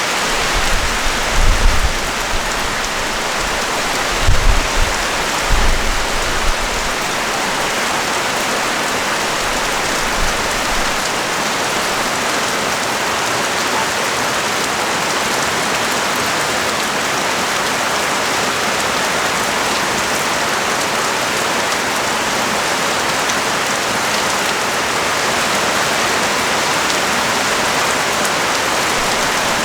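Rain falling steadily and heavily, a dense even hiss of drops. A few brief low rumbles come in the first ten seconds.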